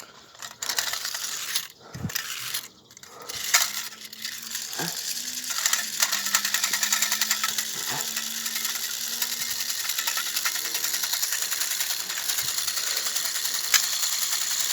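Clockwork motor of an O gauge tinplate locomotive whirring: a fast, even metallic clatter of spring-driven gears. It begins after a few light clicks and knocks from the train being handled.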